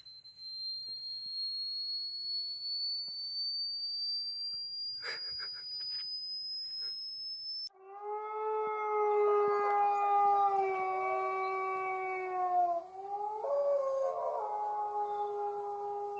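A single high-pitched tone rising slowly in pitch, cut off abruptly about eight seconds in. Then a dog howls, one long drawn-out howl that wavers near the end.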